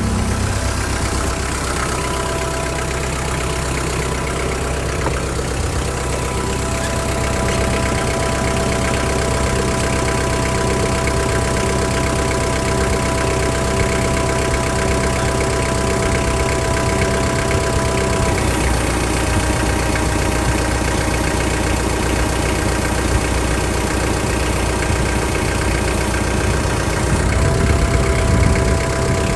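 Tractor engine running steadily. Its pitch drops slightly about two-thirds of the way through and comes back up near the end.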